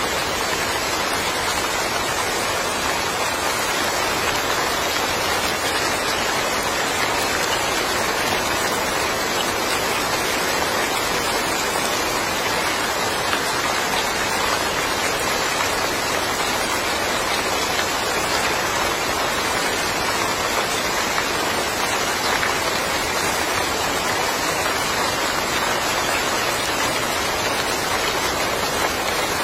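Steady rain falling on a yard, a dense even hiss of many drops with no single strikes standing out.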